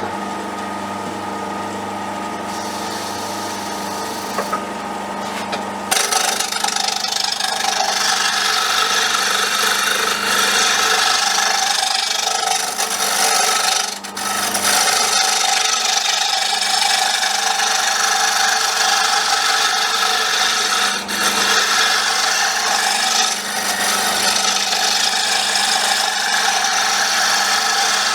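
Wood lathe starting and running with a steady motor hum. About six seconds in, a turning tool starts cutting the spinning wooden popper blank, a loud scraping cut with a few brief breaks where the tool lifts off.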